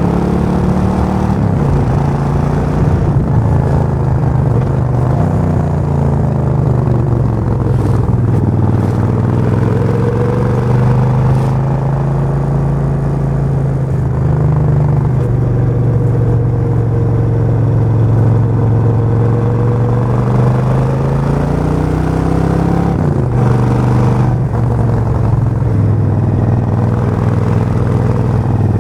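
Suzuki VS1400 Intruder's V-twin engine running under way, its pitch rising and falling several times with the throttle, and dropping sharply once late on as with a gear change.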